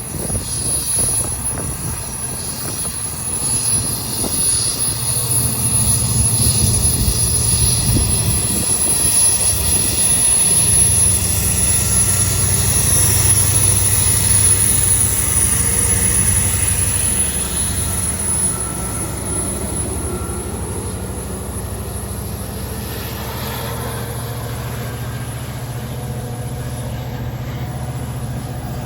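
Metra commuter train's diesel locomotive running, a steady low rumble that swells for several seconds in the middle and then eases back to a steady drone.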